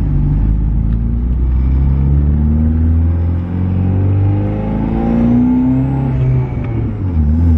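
Hyundai Genesis Coupe's built 2.0-litre Theta four-cylinder with an Evo 9 turbo conversion, accelerating: the engine note rises, dips briefly, rises again and drops near the end. The engine is still untuned.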